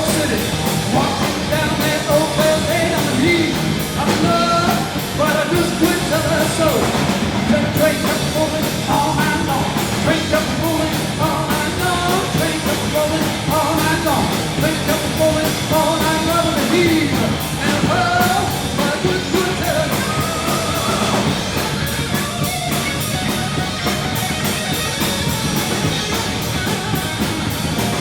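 Live rock band playing a hard-driving rock-and-roll number: guitars and drums keep a steady beat, with a bending lead line over them that thins out in the last several seconds.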